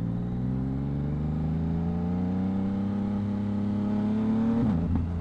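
2022 Yamaha MT-09's three-cylinder engine through a Two Brothers aftermarket exhaust, rising steadily in revs under acceleration, then dropping sharply in pitch with an upshift near the end.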